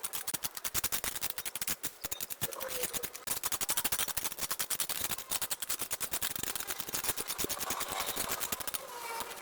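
Dense, rapid crackling and snipping of vines and brush being cut and pulled away, with a few faint voice-like calls near the end.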